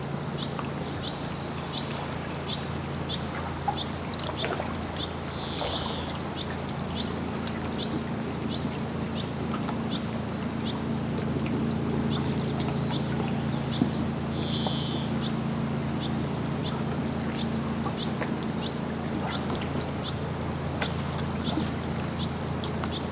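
A small bird calling with short high notes, repeated about two to three times a second, with a few softer calls now and then. Underneath, water lapping and a steady low hum.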